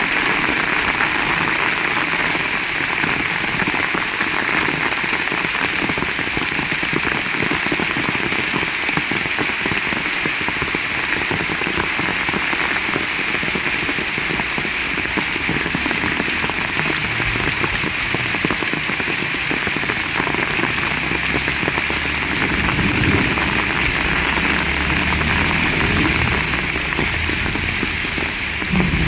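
Heavy rain falling steadily, a dense even hiss, with a low rumble joining in through the second half.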